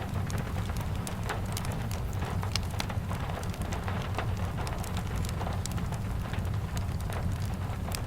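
Steady rain with a wood fire crackling: scattered sharp pops and ticks over an even low rumble and hiss.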